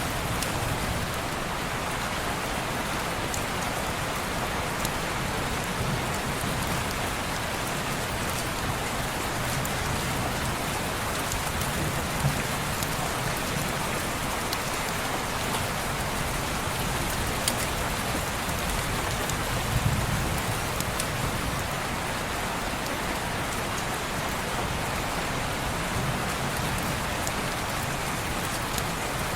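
Steady rain pattering on a window pane, an even hiss with scattered sharp ticks of drops. A few soft low swells rise and fade, about twelve and twenty seconds in.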